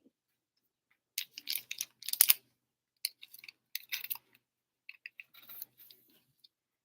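Trading cards and card packs being handled: a scatter of rustles and clicks, loudest a little after two seconds in.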